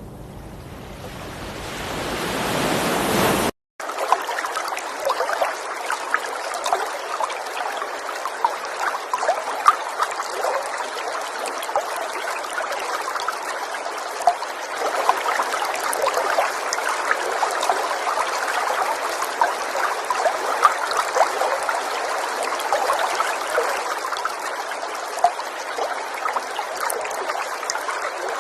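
River water running and trickling steadily, thick with small splashes and gurgles. It comes in after a swelling rush of water noise that cuts off in a brief dropout about three and a half seconds in.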